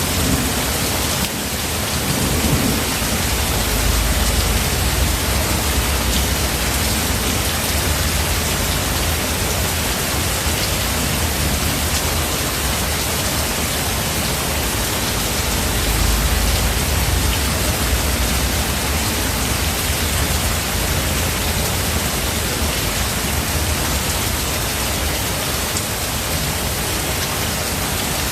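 Steady heavy rain, an even hiss of falling rain, with a deep rumble of thunder rolling under it that swells a few seconds in and again about halfway through.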